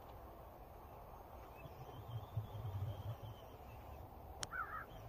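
A bird calling, three short quick calls near the end, just after a sharp click, over a faint low rumble.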